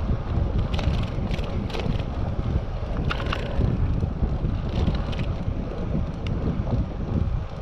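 Wind buffeting the action camera's microphone while riding a bicycle: a steady low rumble, with a few brief clicks or rattles.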